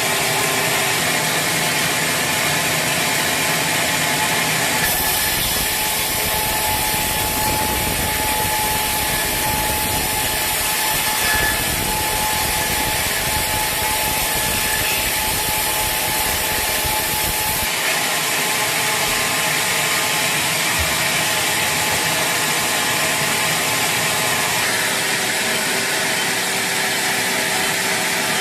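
Sawmill saw cutting through a teak log, a steady loud sawing noise that grows heavier from about five seconds in and eases back near eighteen seconds as the cut passes, with the mill's machinery running steadily throughout.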